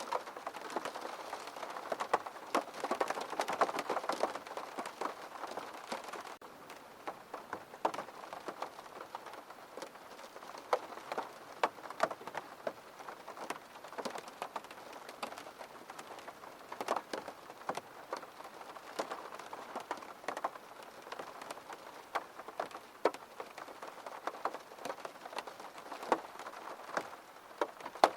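Steady rain with many separate drops ticking sharply on a hard surface close by. The rain is heavier for the first few seconds, then eases to a lighter patter.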